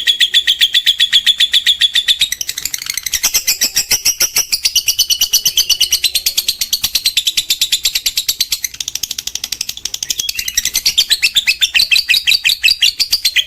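Lovebird singing a long ngekek: one unbroken run of rapid, shrill chattering notes, many to the second, wavering up and down in pitch.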